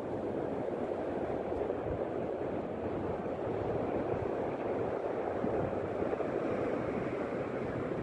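Steady wash of calm sea surf, an even rushing noise with no breaks.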